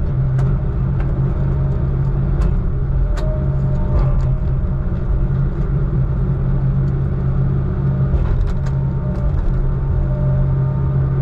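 Heavy diesel engine of logging equipment running steadily with a low drone, with a few light clicks and knocks about two to three seconds in and again around eight seconds.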